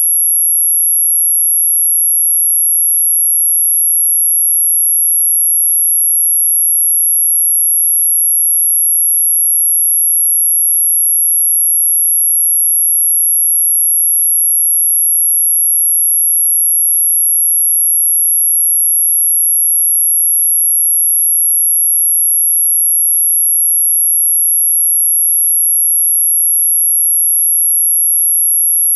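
A single steady, very high-pitched pure tone held without change: an anti-mosquito repellent tone.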